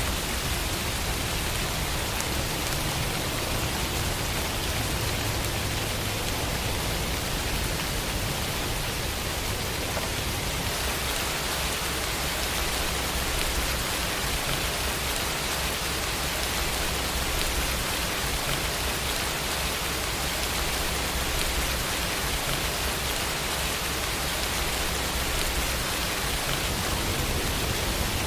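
Steady rain falling, an even, unbroken hiss with no single drops or thunderclaps standing out.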